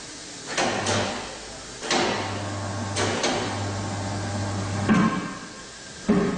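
Tyre changing machine at work: its motor hums in three short runs, stopping and starting, between sharp metallic clunks and clacks, with a hard knock near the end.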